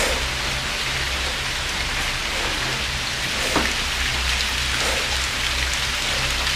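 Steady drizzling rain falling, a continuous even hiss, with a faint single tap about three and a half seconds in.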